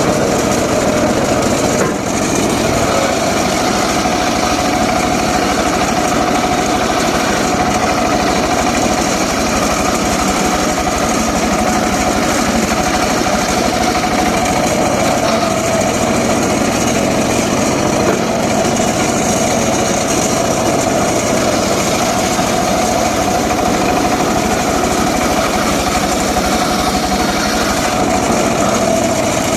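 Engine of a homemade circular saw rig running steadily, with the spinning blade giving a steady whine, between cuts rather than cutting through wood.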